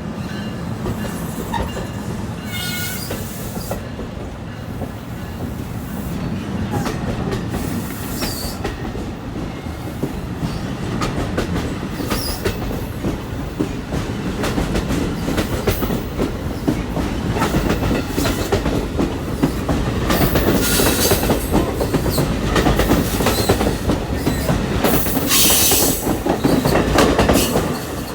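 Train rolling past, its wheels clicking over the rail joints with occasional wheel squeal, growing louder toward the end.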